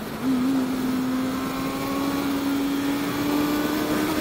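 Honda CB650F's inline-four engine at highway speed: a steady engine note that steps up about a quarter second in and then climbs slowly in pitch as the bike gently accelerates, over a constant rush of wind noise.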